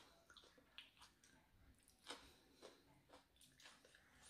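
Faint close-up eating sounds: someone chewing a mouthful of soft food, with a string of wet mouth clicks and smacks, the clearest about two seconds in.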